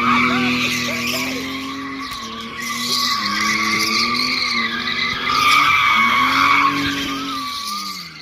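A car's engine held at high revs while its rear tyres squeal continuously, as in a burnout or donuts. The revs sag and climb again twice and drop away near the end.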